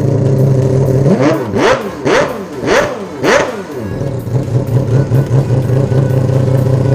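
Mazda 26B four-rotor rotary engine in an RX-7 FD running steadily, then revved in four quick throttle blips about a second in, each rising and falling in pitch, before settling back to a steady run.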